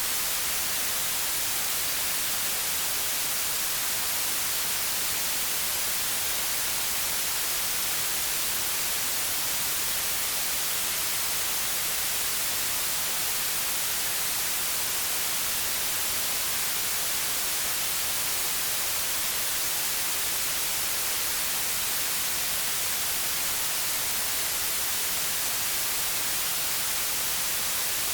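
Steady white noise: an even, unchanging hiss, brightest in the treble, with no pattern or rhythm.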